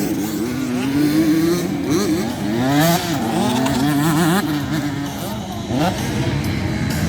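Several motocross bikes racing, their engines revving, each pitch repeatedly climbing and dropping back as the riders work the throttle.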